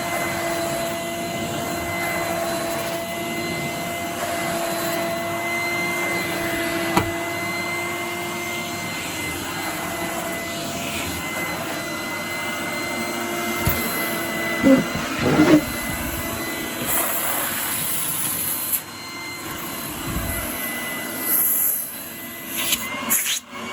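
A 1988 Numatic Henry HVR200 vacuum cleaner running with a steady motor whine. Partway through, its pitch and level shift, and there are a few knocks near the end. A light squeak remains after the refurbishment, which the owner puts down to either fresh oil or the old brush holders.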